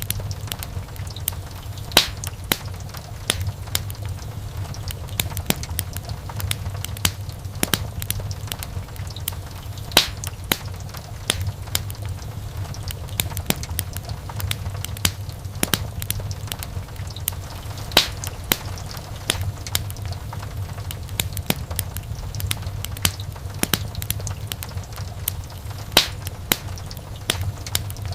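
Wood fire in a fireplace crackling, with frequent small pops and snaps over a low steady rumble of the flames. A few sharper, louder pops stand out, about one every eight seconds.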